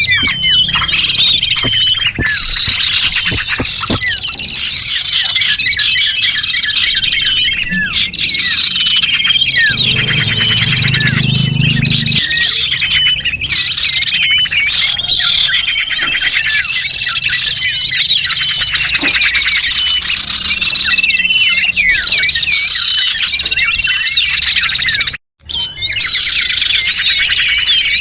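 Small birds' lure calls: many high chirps, trills and short whistles overlapping in a dense, continuous chorus. The sound cuts out for a split second about 25 seconds in.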